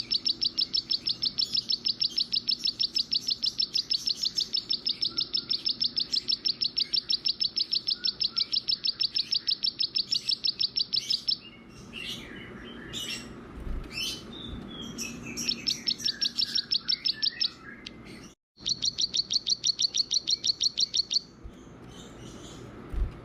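A small songbird calling: a long, fast, evenly repeated run of high chirps, several a second. About halfway through it breaks into looser, varied chirps and twitters. After a brief dropout it gives a second short run of the same rapid chirps, then returns to scattered chirps.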